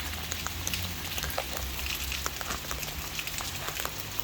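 Heavy rain falling in a steady hiss, with many sharp drip and drop ticks.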